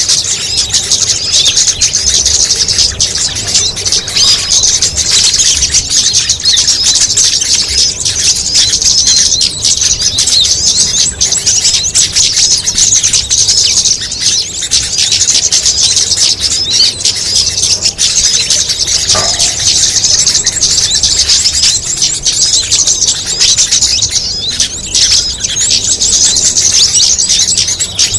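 Bird lure recording for small birds: a dense, unbroken chorus of high-pitched small-songbird calls and chatter mixed together, with one brief lower call about nineteen seconds in.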